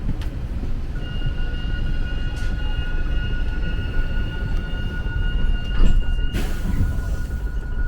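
Train running with a steady low rumble and a steady high whine that starts about a second in; a brief hiss sounds near the end as the higher part of the whine stops.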